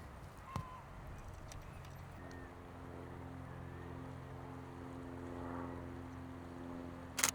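A steady engine drone sets in about two seconds in and holds an even pitch. Right at the end comes a quick burst of camera shutter clicks.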